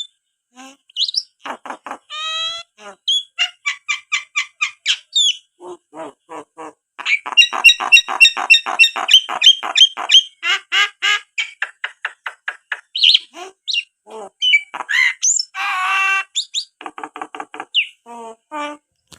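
Pet common myna calling: long runs of quick repeated chattering notes, about five or six a second, broken by short whistles and a harsh squawk about two-thirds of the way through.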